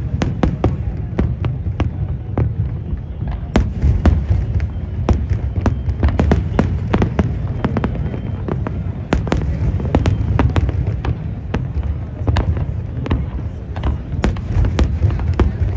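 Aerial fireworks bursting in a dense barrage: many sharp cracks and bangs a second over a continuous low rumble.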